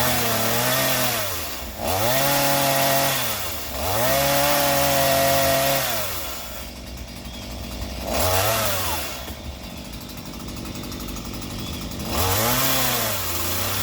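Chainsaw revved up five times and dropped back to idle between, the third rev held longest, about two seconds, and the fourth short.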